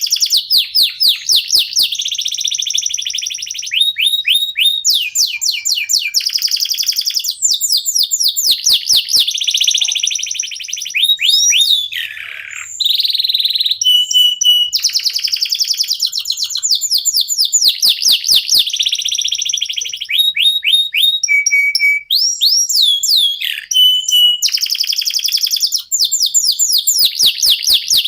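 Domestic canary singing a long, continuous song: fast trills of rapidly repeated high notes and downward-sweeping notes, with a few short held whistles between phrases.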